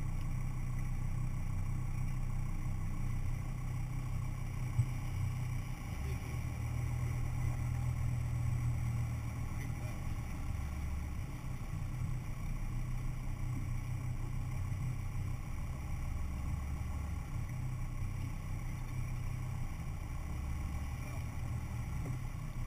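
Four-wheel-drive vehicle's engine running at low revs, a steady low hum whose pitch shifts a few times as the revs change. A single short click about five seconds in.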